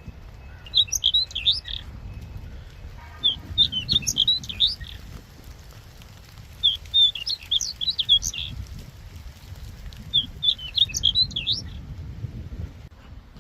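A songbird singing four short, quick phrases of high chirping notes, each about a second long and a few seconds apart, over a steady low rumble.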